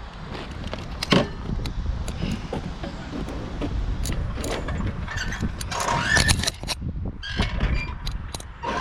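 Riding noise from a Sur-Ron electric dirt bike on dirt ground: low wind and ground rumble with sharp knocks and rattles from the bike. A brief high squeak comes about six seconds in.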